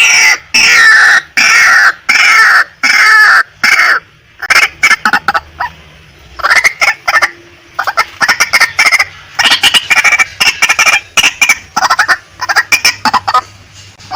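Female white-breasted waterhen calling: loud, harsh repeated notes falling in pitch, about two a second for the first four seconds, then quicker short stuttering notes in bursts.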